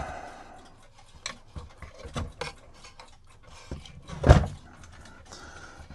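Cuckoo clock parts being worked loose from the wooden case: scattered small clicks and rubbing of metal and wood, with one sharper knock past the middle.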